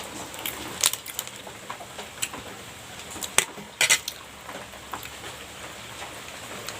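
Cutlery clicking against a dish while pastry is eaten: a few separate sharp clicks, the loudest a quick double click about four seconds in.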